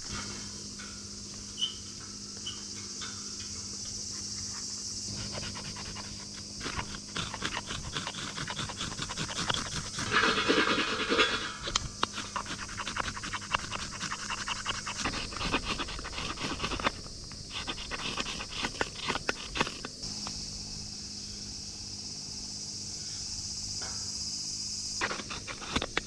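Split firewood crackling and popping in a small solo fire pit as the fire catches, with a louder, busier stretch of crackling about ten seconds in.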